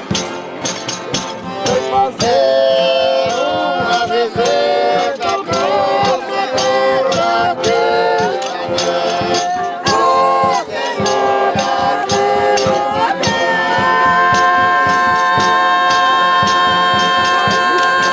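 Live folk music: voices singing a wavering melody over a dense run of sharp percussion strokes, like a rattle or tambourine. In the last few seconds the singing settles into a long held note.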